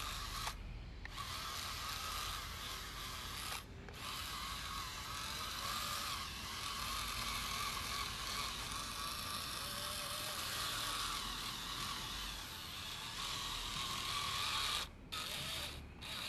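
Small electric gear motor whirring steadily as it drives a miniature wooden truck on spiral screw wheels, its gears buzzing; the sound breaks off briefly a few times.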